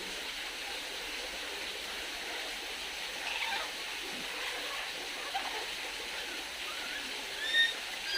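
A steady rushing hiss, with a pet bird's short, clear pitched calls starting near the end.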